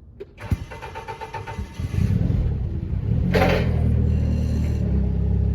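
An engine starts up and settles into a steady low running rumble, with a short burst of noise about three and a half seconds in.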